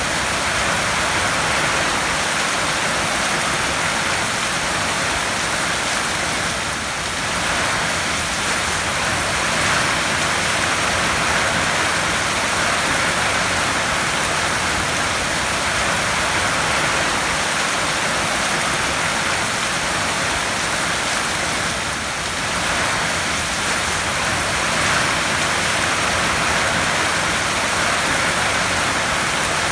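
Heavy rain falling steadily on a tin roof, an even hiss that eases slightly twice.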